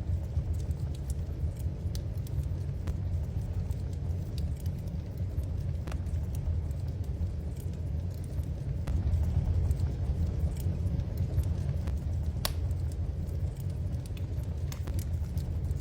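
Wood fire crackling in a fireplace: scattered sharp pops and crackles over a steady low rumble, with one louder pop about twelve seconds in.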